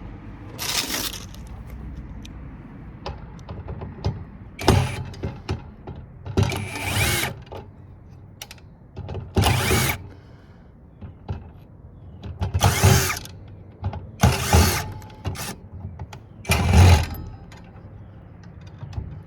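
Corded electric drill-driver running in short bursts, about seven in all, as it backs screws out of a metal power-supply board.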